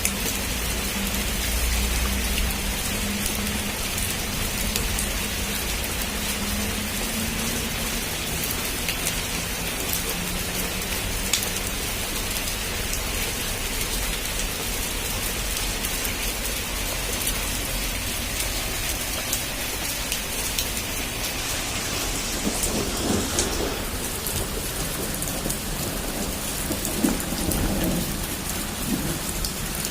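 Heavy rain falling steadily on a rooftop, an even hiss with scattered sharp drop taps. A low rumble of thunder sits under it in the first few seconds.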